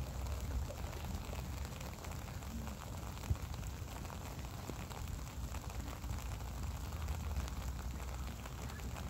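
Light rain falling: an even hiss with scattered faint ticks of drops over a low steady rumble, and one sharper tick about three seconds in.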